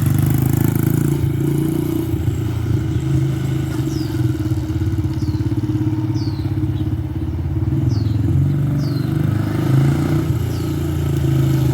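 Honda XR70R pit bike's small four-stroke single-cylinder engine running steadily, its level swelling and dipping slightly. Several short, high, falling chirps sound over it from a few seconds in.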